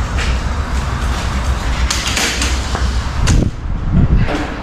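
Wind buffeting the microphone with a heavy rumble. Over it come a rushing scrape about two seconds in, then a sharp knock and a thump near the end, typical of a wooden table being handled and set down.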